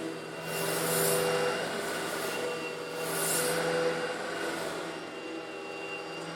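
Eureka vacuum cleaner running steadily, sucking up small coarse stone granules. Its motor hums throughout, and two louder swells of hissing grit, about a second in and again around three seconds, come as granules are pulled in.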